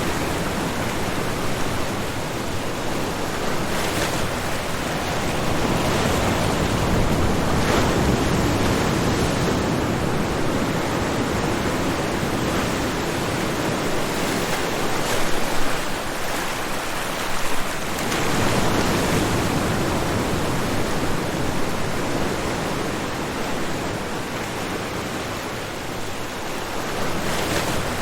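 Ocean waves breaking and washing up on a beach: a continuous rush of surf that swells and eases.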